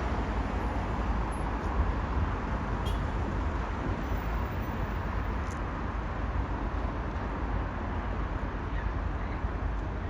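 Steady rumbling vehicle noise with a heavy low rumble, and a few faint clicks on top.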